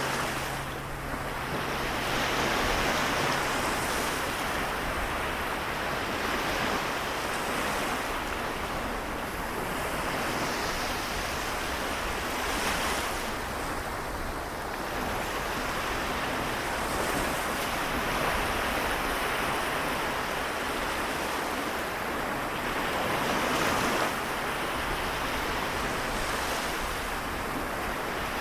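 Small waves of the Seto Inland Sea washing on the shore: a steady wash of surf that swells and eases gently every few seconds.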